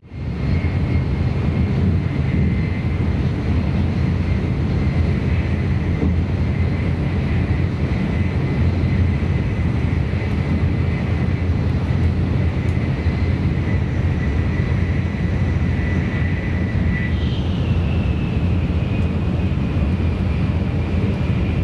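Cabin noise aboard an N700S Shinkansen running at speed: a steady low rumble and rush from the running gear and air. A faint high whine sits above it; it slowly falls in pitch, jumps up about 17 seconds in, then falls again.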